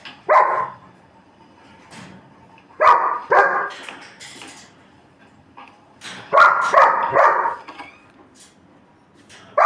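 German shepherd barking in three short groups: one bark, then two, then a run of about four.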